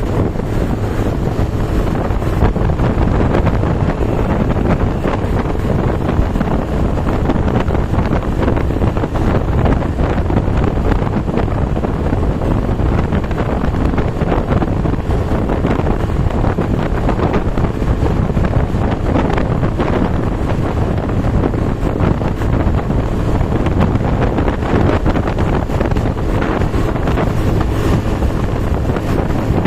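Wind buffeting the microphone, heavy and steady, mixed with the noise of heavy rain.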